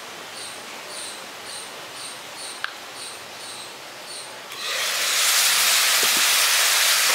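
An insect chirping in short, evenly spaced chirps about twice a second, with a single click near the middle. About four and a half seconds in, a loud steady sizzle of the bottle gourd leaf and potato curry frying in the pan takes over.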